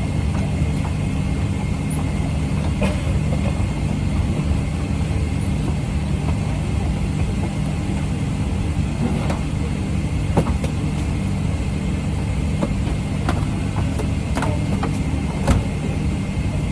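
Steady low hum of a Boeing 777 cabin's air-conditioning during boarding, with scattered light clicks and knocks, the sharpest near the end.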